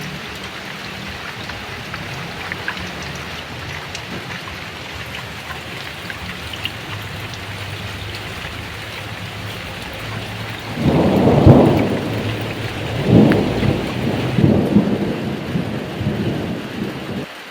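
Heavy rain falling steadily, with scattered drips, then a long roll of thunder that breaks in about two-thirds of the way through, surges twice more and rumbles away near the end.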